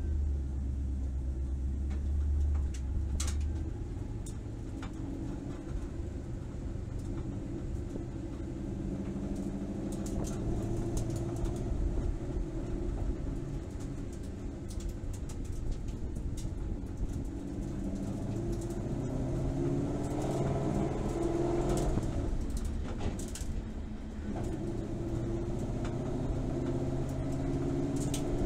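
2014 Ford Mustang Boss 302S's 5.0 V8 heard from inside the cabin, idling low and then pulling away gently at low revs through first gear and into second, on its first road test with a newly installed rear-differential ring and pinion.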